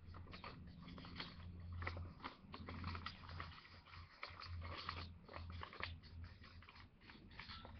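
Sheet of paper crinkling and crackling in quick, irregular little clicks as it is folded and a flap is tucked in, with a low hum coming and going underneath.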